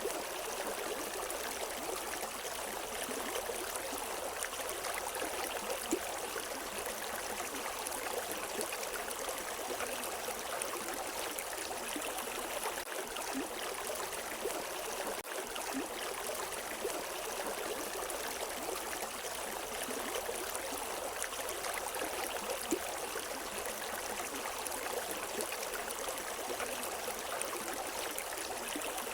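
River water running over rocks: a steady, even rush with no birdsong.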